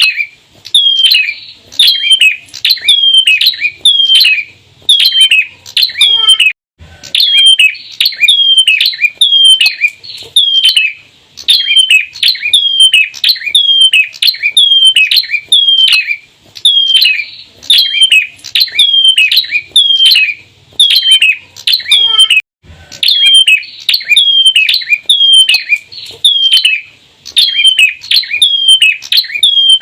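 Bar-winged prinia calling loudly in a fast, even series of short, sharp downward-swept notes, about two a second. The series breaks off briefly twice.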